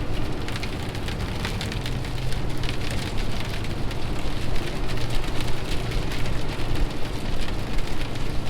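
Dense, steady patter of rain striking the semi-truck's cab, over the low, steady hum of the truck's engine.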